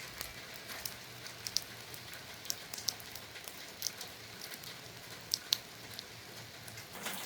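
Rain falling: a steady hiss with scattered sharp drips at irregular intervals.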